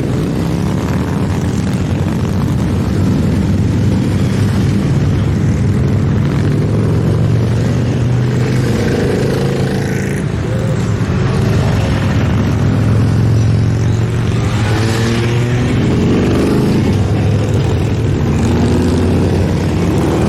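A continuous stream of motorcycles riding past, a steady mass of engine sound with single bikes now and then rising and falling in pitch as they go by.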